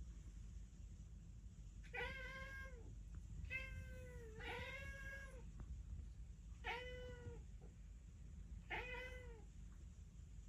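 Persian cat meowing five times, short calls that rise and fall in pitch, as it calls out to pigeons. The first comes about two seconds in, two follow close together around four to five seconds, then one near seven seconds and one near nine.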